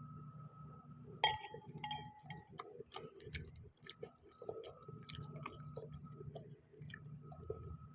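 Close-up chewing of spicy noodles, with wet mouth smacks and scattered sharp clicks. The loudest is a single clink a little over a second in, which rings on briefly.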